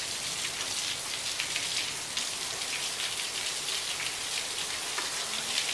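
Heavy rain mixed with hail pouring down: a steady hiss peppered with many small, sharp taps of drops and hailstones striking.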